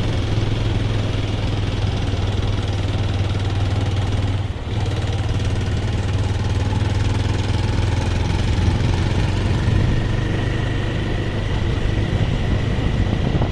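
Vehicle engine running steadily on the move, a constant low hum under a rush of wind and road noise.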